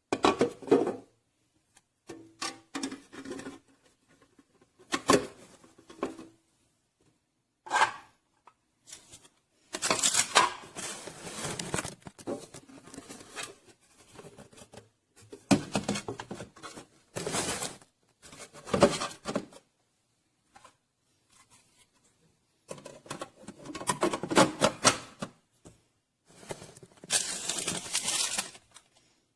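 Handling noises in irregular bursts: clicks, knocks and rustling scrapes of objects being moved about, with short quiet gaps between.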